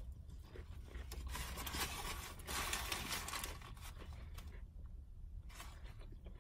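Close-miked chewing of a bite of a Popeyes spicy fried chicken sandwich, the fried breading crunching in a dense crackle that is loudest from about one to three and a half seconds in, then fades.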